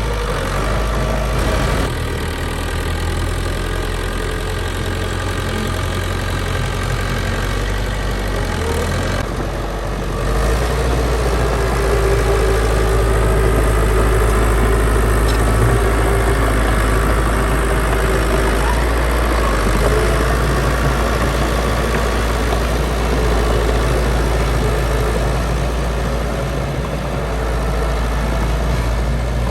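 Heavy diesel engine of earthmoving machinery running, with a deep steady rumble; about a third of the way in the engine picks up and runs louder under load with a held whine.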